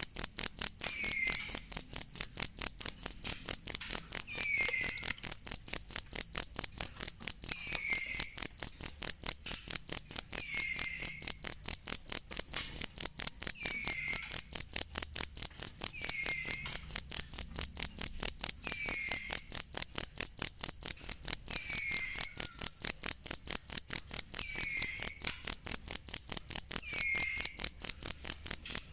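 Cricket chirping without pause: a high-pitched, evenly pulsed trill of several pulses a second. A short, lower chirp recurs about every three seconds alongside it.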